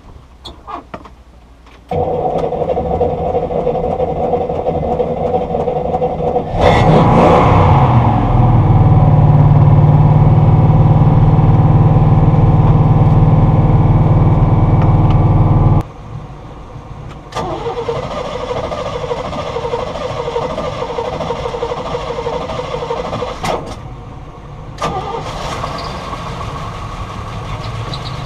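Boat engine starting about six and a half seconds in, rising and settling into a loud steady run. The sound breaks off suddenly near the middle and is followed by other steady engine running in abruptly cut segments.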